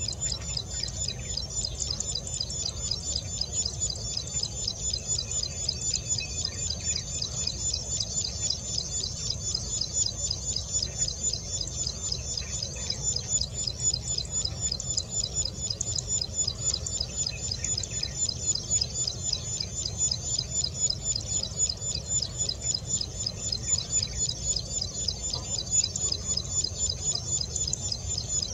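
Plain prinia singing: a rapid, continuous run of repeated high notes.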